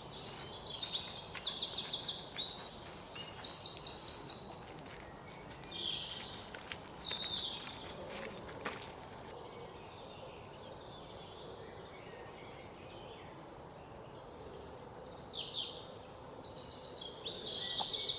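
Several birds singing and calling at once: high chirps and fast trilled phrases over a faint outdoor hum, thinning out in the middle and picking up again near the end.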